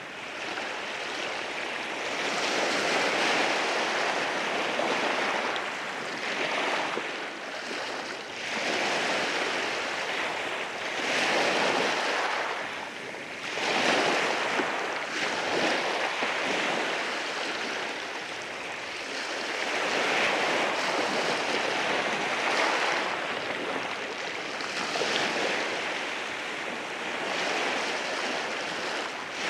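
Waves breaking and washing over rocks on a shore, the surf swelling and ebbing every few seconds.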